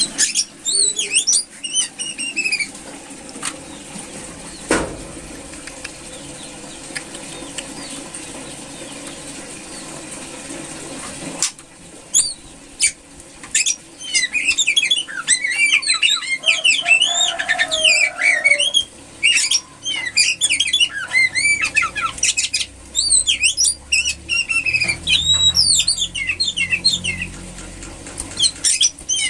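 Female oriental magpie-robin in breeding condition calling: quick, high, up-and-down chirps in rapid runs. There is a short burst at the start, a quieter stretch with a low hum and a few clicks, then nearly nonstop calling from about halfway through.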